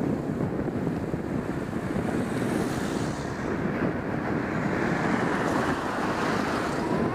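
Wind rushing and buffeting over a helmet-mounted camera's microphone while riding a bicycle: a steady, rough rumble.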